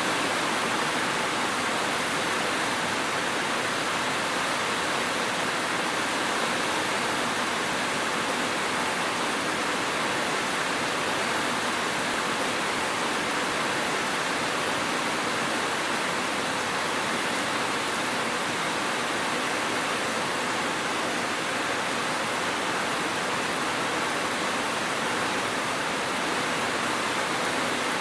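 Steady, even rain, a dense hiss without distinct drops or thunder.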